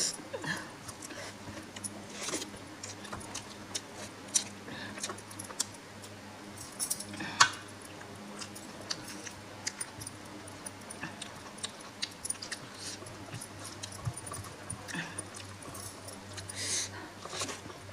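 Close-up eating sounds of daal and mushroom curry: wet chewing and mouth clicks, with scattered light clicks and a few brief louder smacks.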